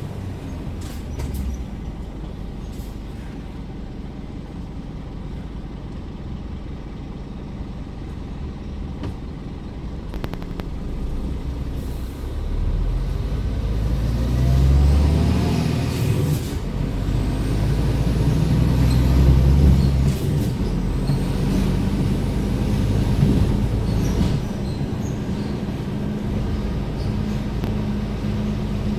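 Scania R410 truck's six-cylinder diesel engine running quietly at first. About twelve seconds in it pulls harder, its note rising and dropping back twice as the automated gearbox changes up, then it settles to a steady run.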